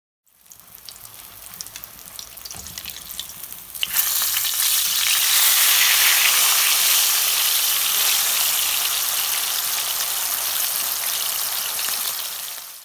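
Breaded pork chop shallow-frying in hot oil in a pan. Light scattered crackling at first; then about four seconds in, as the chop is turned over with tongs, it jumps to a loud, steady sizzle that cuts off suddenly near the end.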